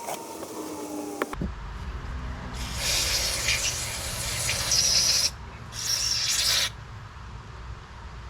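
Aerosol carb cleaner spraying into a lawnmower carburetor to flush out grit and sludge: one long hissing burst about three seconds in, then a short second burst.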